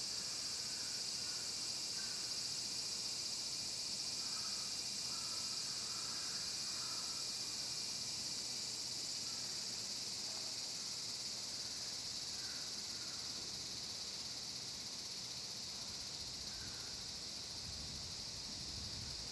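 A steady chorus of forest insects, a continuous high shrill that runs on without a break, with a few faint short chirps scattered through it and a brief low rumble near the end.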